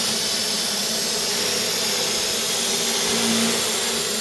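Vacuum cleaner running steadily: a constant loud rush of air with a steady motor hum under it.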